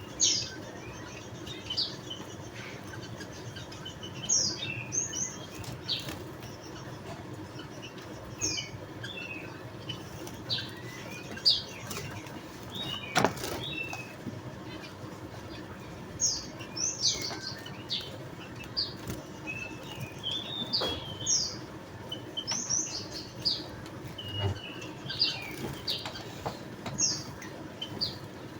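Javan munias giving short, high chirping calls, scattered and sometimes in quick runs of several notes, over steady background noise.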